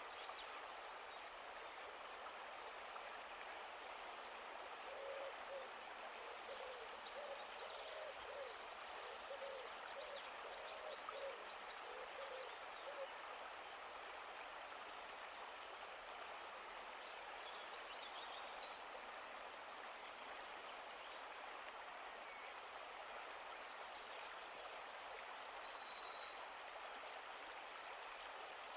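Nature ambience over a faint steady hiss: a run of low, evenly repeated calls a few seconds in, with thin high chirps throughout and a burst of louder high bird trills near the end.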